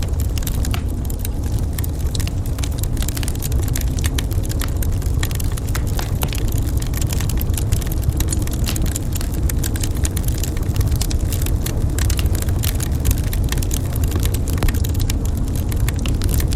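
Wood fire crackling in a fireplace: a constant scatter of small sharp pops and snaps over a steady low rumble.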